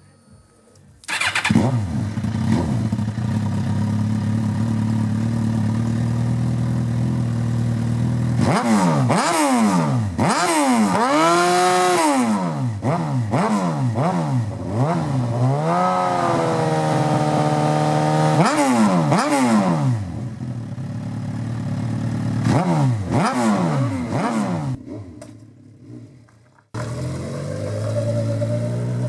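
Suzuki GSX-R 1000's inline-four running through a custom exhaust with twin hybrid double-barrel silencers in place of the stock underbelly muffler. It comes in suddenly about a second in and idles, then is revved over and over, each rev rising and falling in pitch, with one rev held briefly about halfway through. Near the end it dies away and then is idling again.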